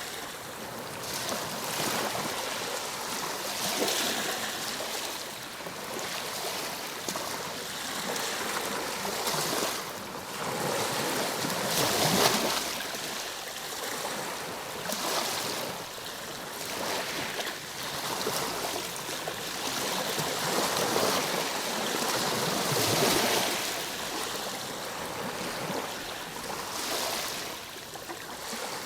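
Ocean waves breaking and washing on a shore, the surf swelling and ebbing every few seconds, with stronger breakers about 4, 12 and 23 seconds in.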